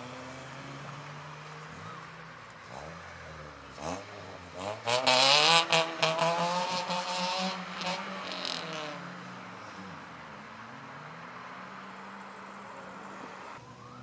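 Car engines pulling away at low revs, then one car's engine revving up hard as it accelerates, rising in pitch with a loud harsh burst about five seconds in, before settling back to steady low running.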